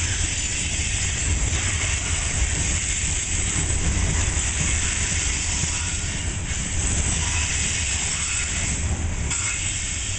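Hopper cars of a Union Pacific freight train rolling past: a steady rumble of steel wheels on the rails with a high hiss over it.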